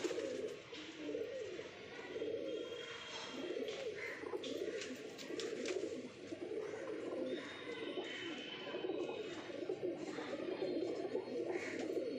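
Pet pigeons cooing without a break, low and throaty, with a few short clicks about halfway through.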